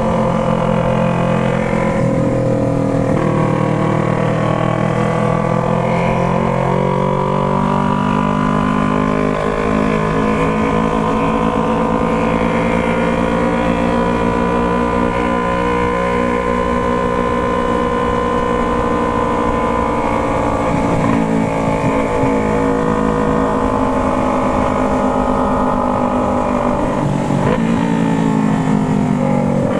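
Yamaha MT-03's 321 cc parallel-twin engine with a Jeskap exhaust, running under varying throttle. The engine note climbs slowly over several seconds, holds high, eases off, then dips and rises again near the end.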